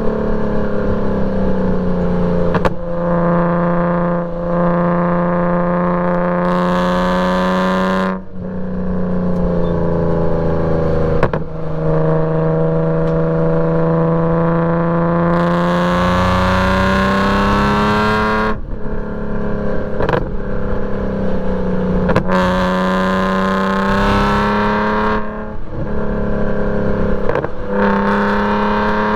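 Straight-piped E46 BMW M3's S54 straight-six running hard on track, its note slowly climbing and levelling off. The note is broken by about eight brief gaps, each followed by a lower pitch that climbs again, as at gear changes.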